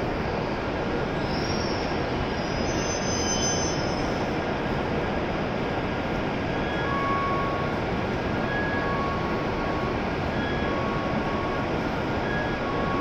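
E7-series Shinkansen train easing to a stop alongside the platform, with a few brief high squeals in the first few seconds, then the steady noise of the standing train.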